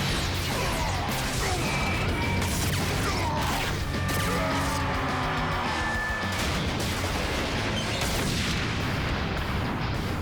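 Action soundtrack: background music mixed with battle sound effects, with crashes, booms and mechanical clanks throughout.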